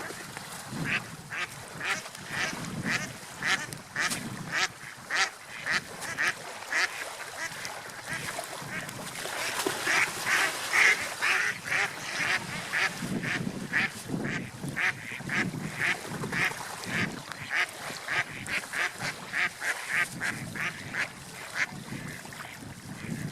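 Ducks quacking in a long run of short, repeated quacks, about two a second, loudest around the middle, over a low rumble of wind and water.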